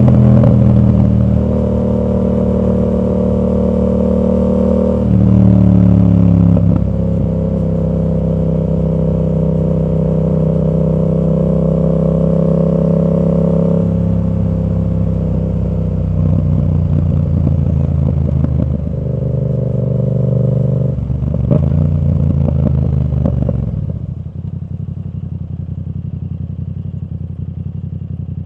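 Yamaha MT-07 parallel-twin engine through an exhaust fitted with a dB killer, holding steady engine speeds that change pitch every few seconds, then dropping to a quieter, steady idle about 24 seconds in.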